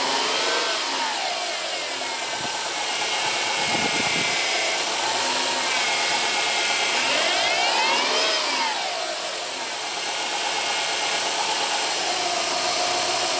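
Subaru Impreza 1.5 idling with its power steering pump moaning, the whine rising and falling in pitch several times. The noise comes from air drawn into the power steering system past a worn rubber seal on the reservoir-to-pump return hose.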